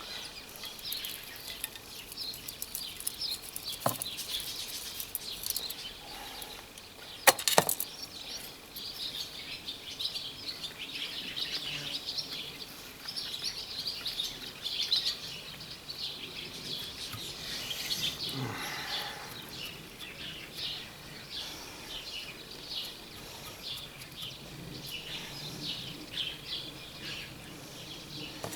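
Hands at work potting a small tree in gritty bonsai soil and a cement pot: a steady run of light, scattered gritty clicks and rustles, with two sharper knocks about 4 and 7.5 seconds in.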